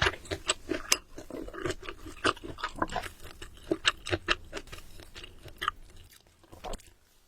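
Close-miked chewing of food, with a quick run of sharp mouth clicks and smacks that thins out and stops near the end.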